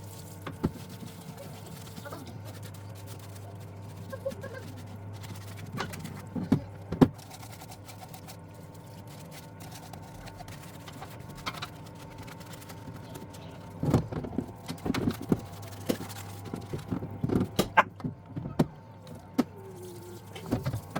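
Parts washer pump running with a steady hum while a motorcycle crankcase half is scrubbed in it. Irregular knocks and clatter, busiest in the second half, come from the metal case and tools against the tub.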